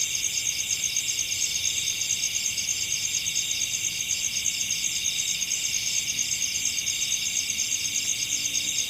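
Night chorus of forest insects: a dense, steady, rapidly pulsing trill high in pitch, with several insects calling over one another.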